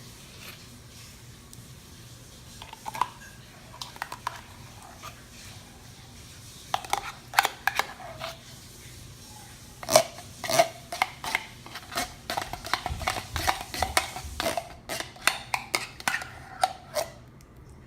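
Metal spoon clinking and scraping while scooping thick canned condensed soup: a few scattered taps at first, then a quick run of sharp ringing clinks from about seven seconds in that stops shortly before the end.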